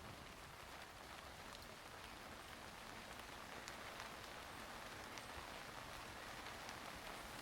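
Steady rain falling, with scattered close raindrops ticking now and then.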